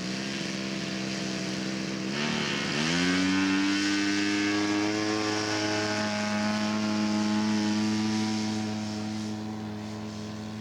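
Engine and propeller of a large radio-controlled scale Cessna 188 Ag Wagon throttling up for takeoff. The engine runs steadily, and about two and a half seconds in its pitch dips briefly and then climbs sharply as it goes to full power. It holds a steady, louder note, easing a little near the end.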